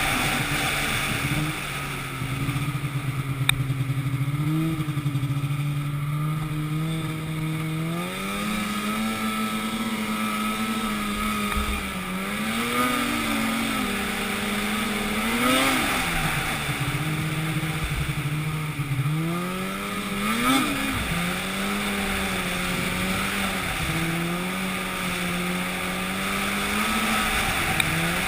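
An engine running steadily, its speed rising and falling again and again.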